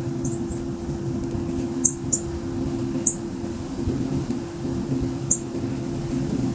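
Small birds giving short, high chirps, several times at irregular intervals, over a steady low hum.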